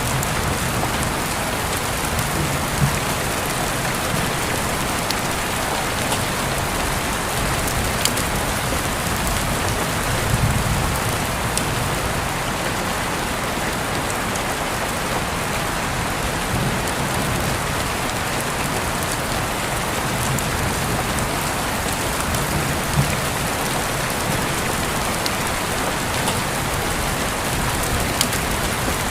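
Steady rain falling on a surface, an even hiss, with now and then a sharper drop tick.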